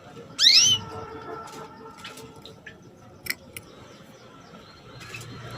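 Female canary giving a single loud, short rising "cuit" call about half a second in, the call a hen uses to draw a male into song; a few faint clicks follow.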